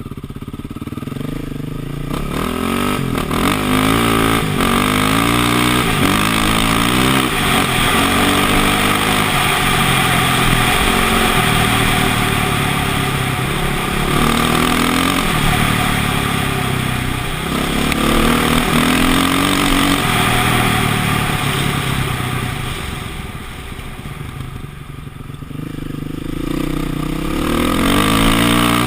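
KTM motocross bike's engine revving up and down as it is ridden off-road, the pitch climbing and dropping again and again, easing off for a few seconds about three-quarters through before picking up again.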